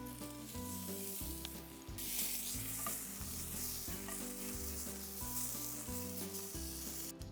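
Vegetables sizzling in a cast iron pan over a campfire, the sizzle growing louder about two seconds in and cutting off near the end. Background music with a bass line plays throughout.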